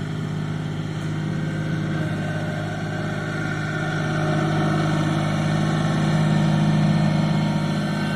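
Tractor engine running steadily, slowly growing louder over several seconds and then easing a little near the end.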